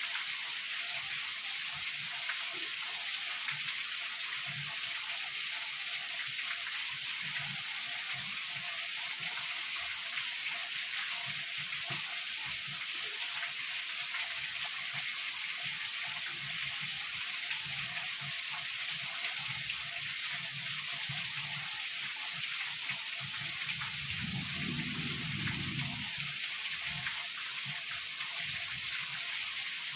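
Heavy rain falling steadily, a dense even hiss, with a short low rumble of distant thunder near the end.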